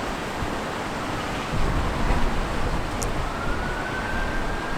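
A distant emergency-vehicle siren, a faint wailing tone that rises about halfway through and holds, over steady wind noise on the microphone and low rumble.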